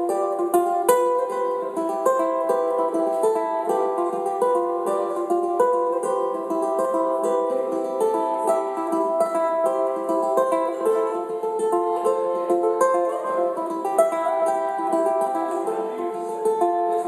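Ukulele played through a loop pedal: several layers of plucked notes sound together in a repeating instrumental pattern.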